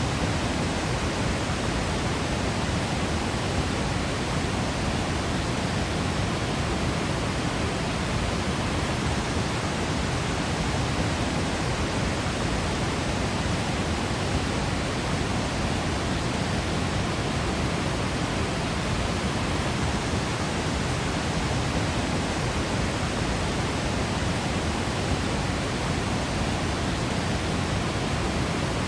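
Waterfall: a steady, even rush of falling water, unchanging in level throughout.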